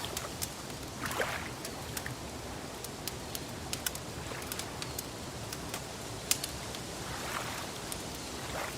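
Wood fire crackling, with irregular sharp pops, over the soft wash of lake water lapping that swells briefly about a second in and again near the end.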